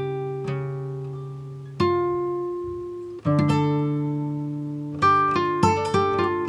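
Acoustic guitar music: chords struck and left to ring out, a few seconds apart, then quicker plucked notes near the end.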